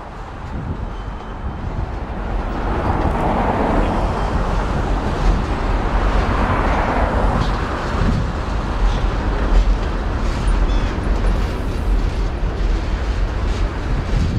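CSX freight train rolling past: a steady low rumble and rushing noise of wheels on rail that swells over the first two seconds and then holds, with a few faint high-pitched squeaks.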